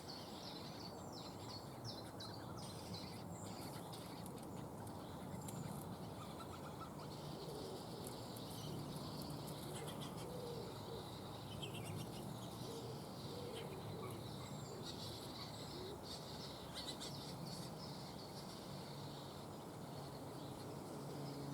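Wild songbirds chirping and calling in short, scattered notes over a steady hiss of outdoor background noise; a low hum comes in near the end.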